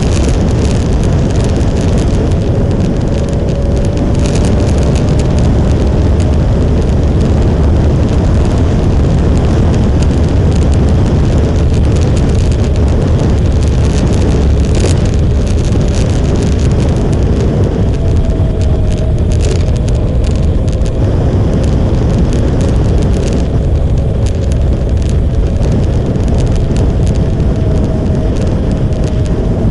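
Motorcycle under way: a steady engine drone, its pitch wavering slightly, under heavy rushing wind on the microphone.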